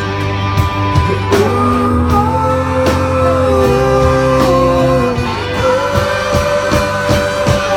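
A live band playing an instrumental passage of a rock song: guitar with long held, bending notes over bass and steady drum hits.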